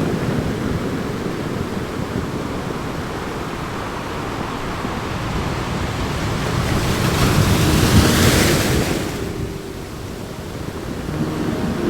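Surf: a steady rush of waves, with one wave swelling and breaking about six to nine seconds in, then falling away.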